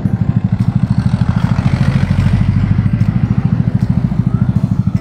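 Motorcycle engine idling while stopped, a rapid, even low thumping. Traffic noise swells briefly about two seconds in.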